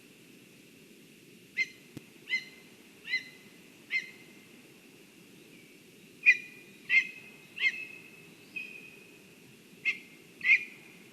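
Black woodpecker calling: about ten short, loud calls in a few runs, each roughly two-thirds of a second apart, over a faint steady rumble of background noise. A single sharp click comes about two seconds in.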